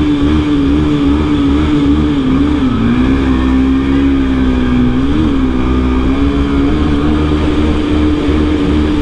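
Motorcycle engine running hard at a steady high pitch inside a road tunnel, with the revs dipping and rising slightly a couple of times as the throttle is worked.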